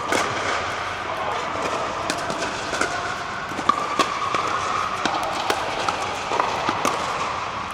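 Pickleball play: sharp, irregular pops of paddles striking a plastic ball and the ball bouncing, over a steady din of background voices from many players.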